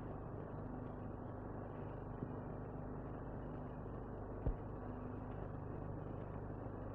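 Steady low hum and hiss of an old soundtrack recording, with one faint click about four and a half seconds in.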